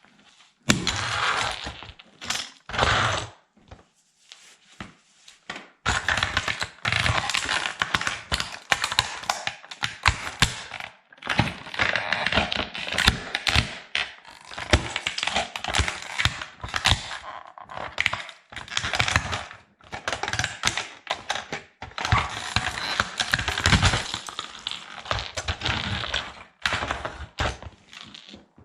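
Plastic toy military truck crushed underfoot by rubber sandals: fast, dense cracking and crunching of plastic, with a short pause in the first few seconds before it starts again.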